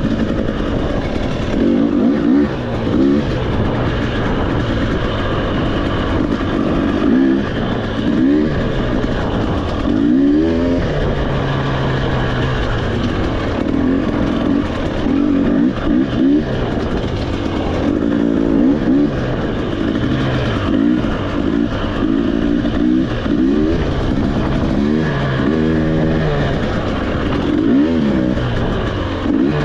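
Off-road motorcycle engine on a trail ride, its pitch rising and falling over and over as the throttle is opened and closed and the gears change, over a steady rushing noise.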